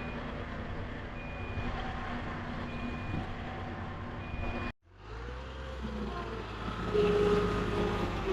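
Truck engine running, with a reversing alarm beeping about every second and a half. After a brief cut near the middle, the alarm stops and the engine sound changes and grows louder near the end.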